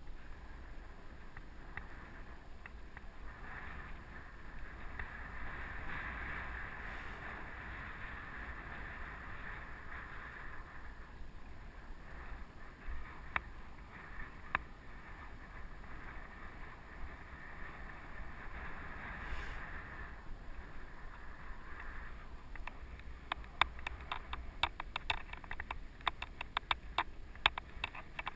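Mountain bike rolling along a dirt trail: steady tyre and rolling noise, with a run of sharp irregular clicks and rattles in the last few seconds.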